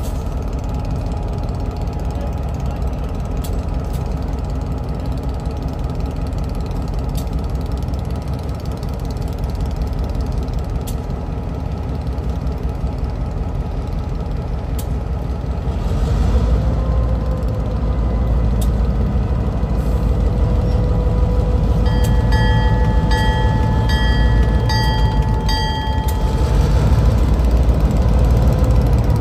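Train rumbling along, heavy and steady, growing louder about halfway through. Near the end a locomotive's multi-note horn sounds for about four seconds.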